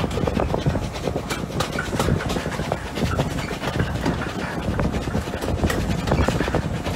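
A heritage railway coach running along the line, heard from an open carriage window: a steady rumble of wheels on the track with frequent small clicks and rattles.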